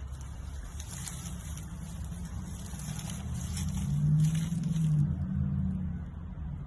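A low motor rumble, like a vehicle engine, that swells to its loudest about four to five seconds in and then fades back, under a faint high hiss that stops about five seconds in.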